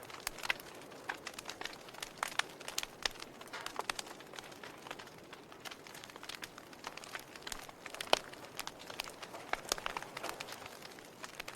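Log fire crackling: irregular sharp pops and snaps of burning wood over a soft steady hiss, with one louder pop about eight seconds in.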